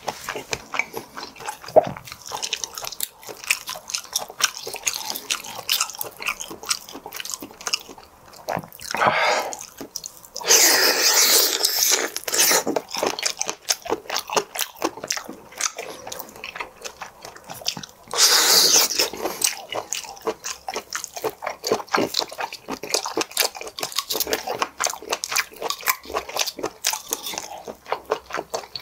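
Close-miked chewing and biting of whelk meat, with many small wet mouth clicks. There are two louder, noisier spells, about ten and about eighteen seconds in.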